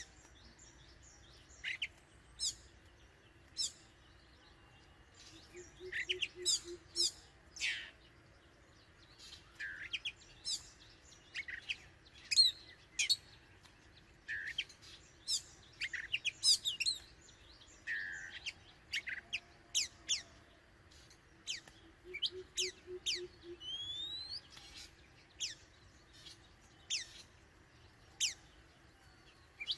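Oriental magpie-robin calling: short, sharp, high notes and a few whistled glides, scattered irregularly with brief gaps.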